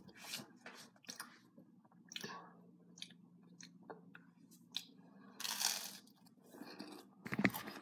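A person biting into and chewing crunchy, well-toasted breakfast food in irregular crunches, with a longer crunch a little past halfway.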